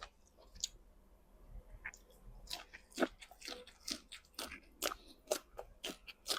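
A person biting and chewing crisp food close to the microphone, with irregular crunches. It is fairly quiet for the first two seconds, then crunching comes several times a second.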